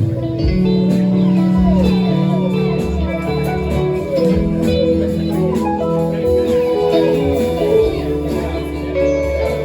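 Band playing an instrumental passage, a lead guitar bending and sliding its notes over bass and rhythm guitar.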